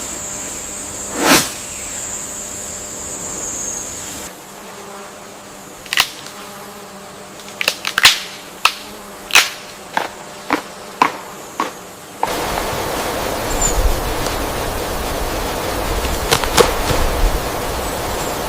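Rainforest ambience in edited segments: a steady high-pitched insect drone for the first four seconds, then a quieter stretch of about a dozen sharp, irregular clicks, then from about twelve seconds in a louder, steady rushing noise.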